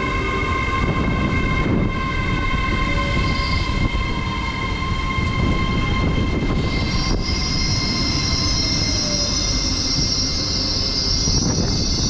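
LNER Class 800 Azuma train pulling into the platform and slowing, its drive whine sinking in pitch over several seconds, with a high squeal, typical of brakes, setting in about halfway through.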